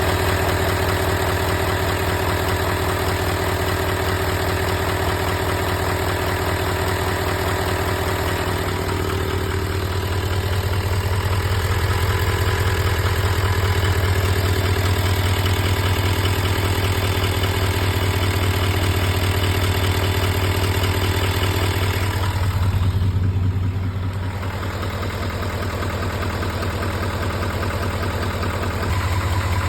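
L5P Duramax 6.6-litre V8 turbodiesel idling steadily, with a fast, even ticking in its running sound. The upper range dulls briefly about three quarters of the way through.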